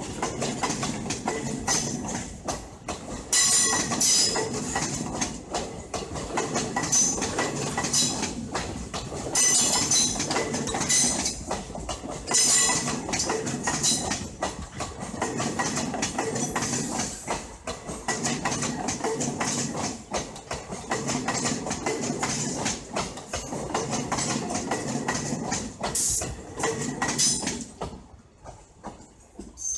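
Passenger train running past close by: a steady rumble of rolling wheels with repeated clatter as they cross rail joints. It drops away suddenly near the end.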